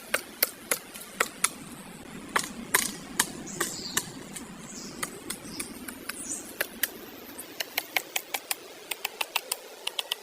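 Woodpecker pecking at wood: sharp, separate taps, irregular at first, then a quicker, more even run in the second half.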